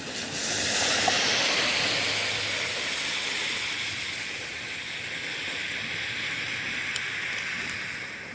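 Rain, with a loud rushing hiss that swells up about half a second in, slowly drops in pitch and fades out near the end.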